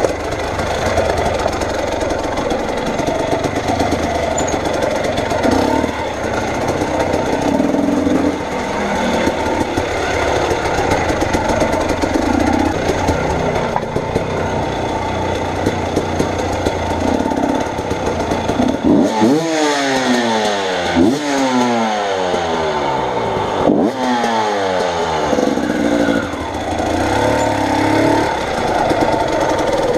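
A motor vehicle's engine running while driving, over a steady noisy rattle; about two-thirds of the way through, the engine revs up several times in quick succession, its pitch rising with each rev.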